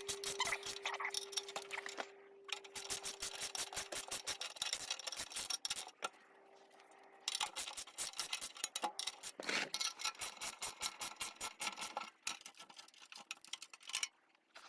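Ratchet wrench clicking in quick runs as the skid-plate bolts are turned, with short pauses between runs. A faint steady hum sounds under the first half.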